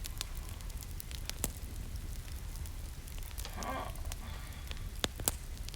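Wood fire in a fireplace crackling, with scattered sharp pops over a steady low rumble. A short hummed voice sound comes about halfway through.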